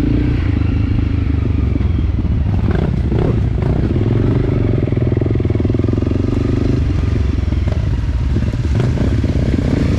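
Enduro dirt bike engine running steadily under way, with a few knocks about three seconds in.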